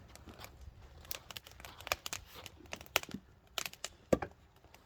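Burning log fire crackling, with irregular sharp pops, the loudest about three seconds and just over four seconds in.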